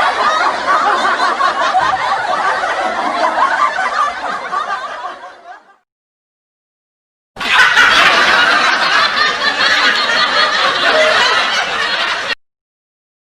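Recorded group laughter that fades away about five and a half seconds in. After a second and a half of silence, a second dense burst of crowd noise starts suddenly and cuts off abruptly near the end.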